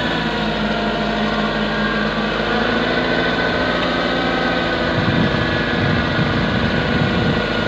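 Dump truck's diesel engine running loudly and steadily under load, turning rougher and more uneven about five seconds in.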